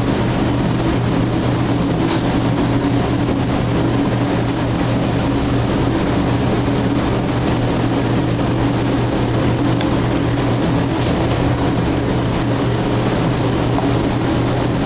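A steady, unchanging machine drone: a low hum over an even rush of noise, like a fan or refrigeration unit running.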